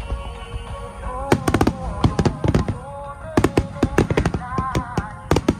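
Aerial firework shells bursting in rapid volleys of sharp bangs and crackles, over music.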